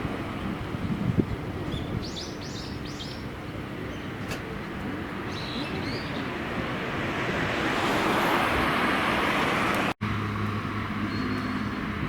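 Roadside car noise with birds chirping a few times about two to five seconds in. A car's sound swells up to about eight seconds in and passes. After a sudden break, a steady low engine hum follows.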